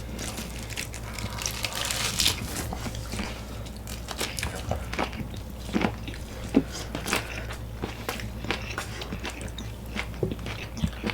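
Close-up eating sounds: chewing and crunching food in irregular crisp clicks, with a few louder crunches.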